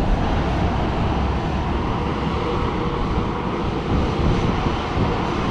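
Jet airliner engines at an airport: a steady, unbroken noise heavy in the low end, with a faint steady hum.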